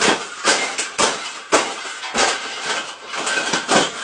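A bird thrashing and beating its wings against its container while being caught: a run of sharp rustling knocks, about two a second.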